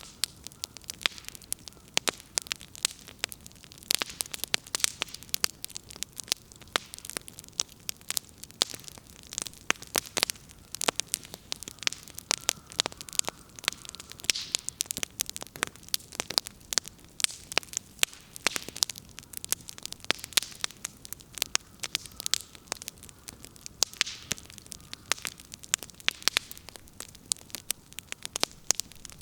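Firewood burning in a bonfire, crackling with many irregular sharp pops and snaps over a soft steady hiss.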